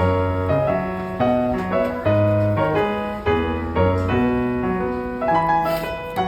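Background piano music: a gentle melody of struck notes over a low bass line, at a steady moderate pace.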